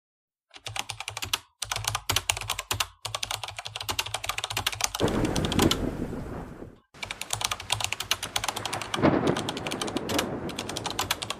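Rapid keyboard-typing clicks in quick runs with short breaks. Two louder rushing swells come about five and nine seconds in.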